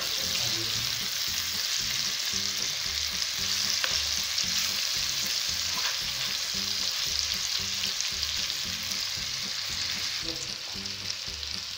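Marinated fish steaks shallow-frying in hot oil in a pan: a steady sizzle with occasional small crackles, easing slightly near the end.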